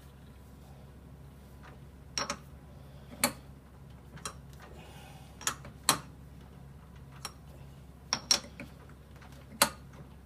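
Sharp metallic clicks and knocks at irregular intervals, some in quick pairs, from a 4-jaw lathe chuck's jaws being adjusted with the chuck key while the work is centered, over a steady low hum.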